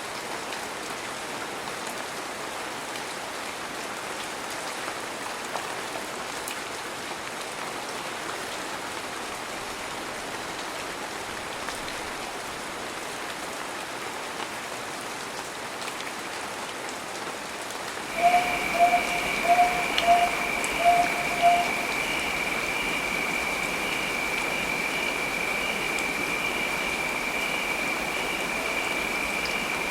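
Heavy rain falling steadily. About two-thirds of the way in the sound changes abruptly: a quick run of about seven short, loud pitched pulses, and a steady high-pitched tone that carries on over the rain.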